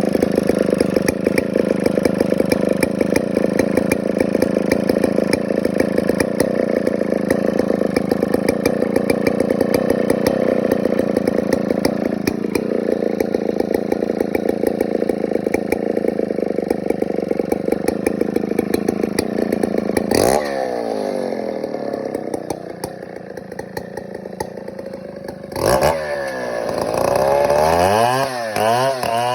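Stihl 070 two-stroke chainsaw running at high speed. About 20 seconds in, a sharp knock is followed by the engine speed falling away. After another knock it is revved up and down, settling at a steady higher speed near the end.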